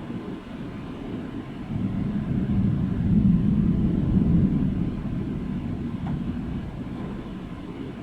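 Low rolling thunder over steady rain: the rumble swells about two seconds in, is loudest for a second or two, then slowly dies away.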